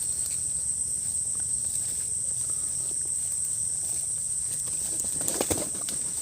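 Steady high-pitched chirring of crickets or other insects, as a jungle ambience over a low rumble, with a couple of knocks or steps about five seconds in.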